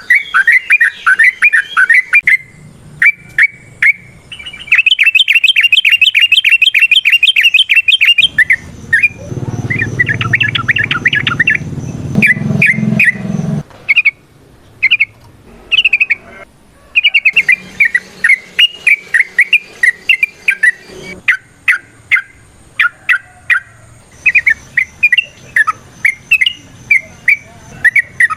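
Yellow-vented bulbul (trucukan) singing a loud, fast, varied chattering song of quick chirps. About five seconds in comes a rapid rattling trill lasting about three seconds.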